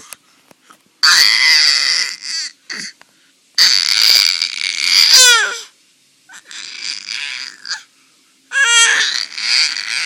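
A baby makes four harsh, raspy screeches, her dinosaur impression. One breaks into a falling squeal at its end and another opens with a short pitched cry.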